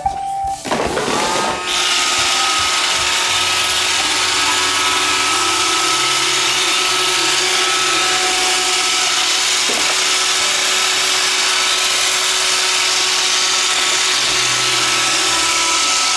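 iRobot Roomba 560 robot vacuum starting a cleaning run: a short beep, then its vacuum and brush motors spin up with a rising whine about a second in and run on with a steady whir and hiss.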